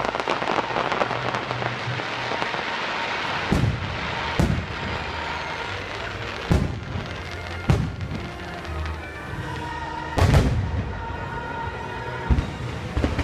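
Fireworks bursting overhead in a string of about six loud booms, the strongest about ten seconds in. Under them plays the show's music soundtrack.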